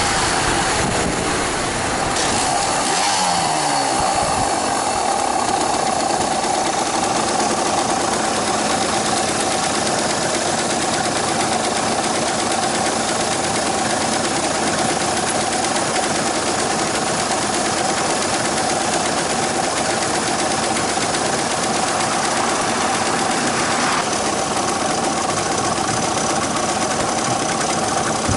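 Yamaha DT230 Lanza's two-stroke single-cylinder engine running, its pitch sliding and falling over the first few seconds and then holding steady. The tone shifts abruptly near the end.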